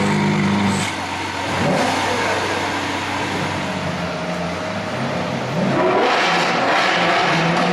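Lamborghini Aventador V12 engines being revved hard, the note rising and falling in blips, loudest near the end. There are two sharp cracks near the start.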